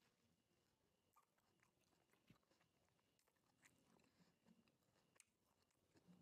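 Very faint close-up chewing, a mouthful of fried mushroom, with small scattered mouth clicks and soft crunches.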